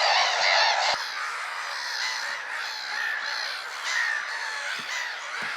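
A large flock of gulls calling, many squawking calls overlapping into a continuous din; it drops suddenly to a quieter level about a second in.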